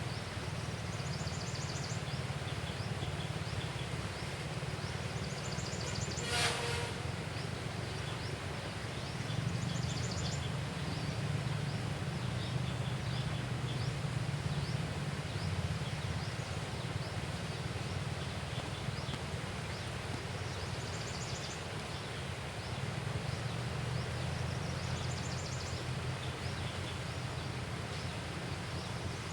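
Outdoor riverside ambience: a steady low rumble under frequent small bird chirps and short high trills that come every few seconds, with one brief louder call about six seconds in.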